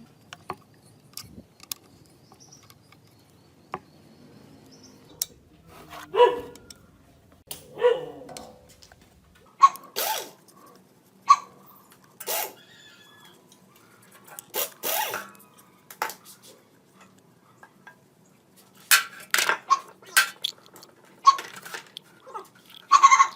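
Irregular clicks, knocks and short scrapes of metal engine parts and hand tools being handled during work on a small two-stroke engine.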